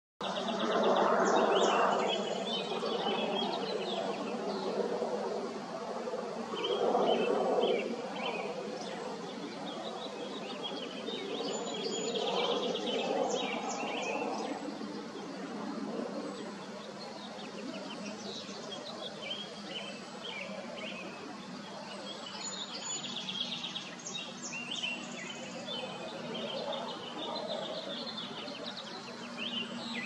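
Bird calls: clusters of short, high chirping notes that come and go every several seconds over a steady outdoor background hiss and hum.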